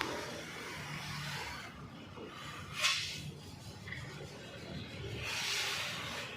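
Hand scraping and rubbing strokes on body filler on a car panel, with one short, sharper scrape about three seconds in.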